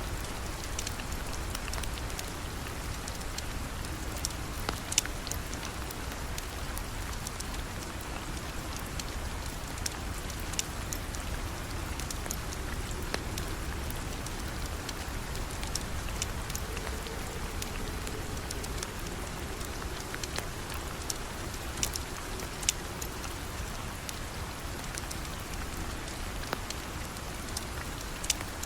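Steady rain falling, with scattered sharp ticks and pops over it.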